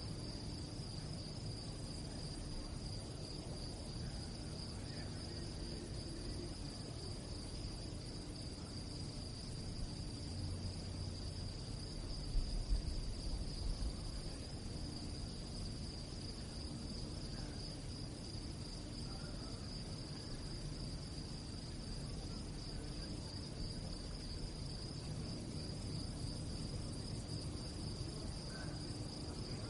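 Crickets chirping steadily in a continuous high-pitched chorus. A brief low rumble comes through a little before the middle.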